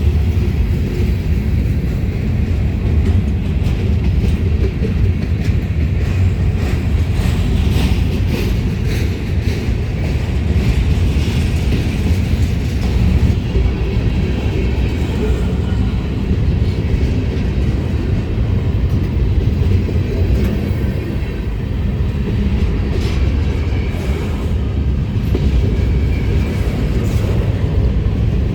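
Ferromex freight train rolling past, a steady heavy rumble with scattered clicks and clanks of wheels over the rail joints.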